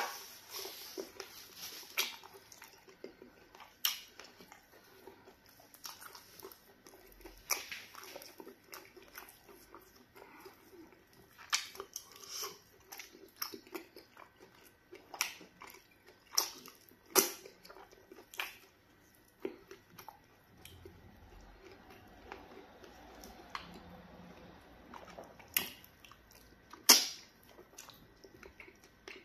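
Close-up eating sounds of pounded yam fufu and okra soup eaten by hand: wet chewing and lip smacks, with sharp smacking clicks at irregular spacing every second or two. The loudest smack comes near the end.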